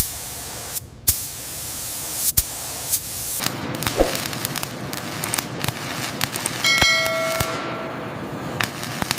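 Workshop metalwork noise on the helicopter: a steady hiss under repeated sharp metallic knocks and clicks, with one ringing metal clang about seven seconds in.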